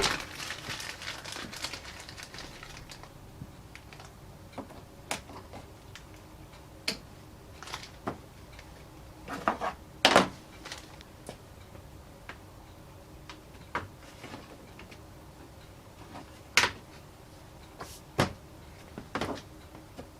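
Scattered sharp clicks and taps of plastic trim clips and hand tools being worked while a car's front bumper cover is refitted, about a dozen irregular strikes with the loudest a little before halfway and again about three quarters of the way in.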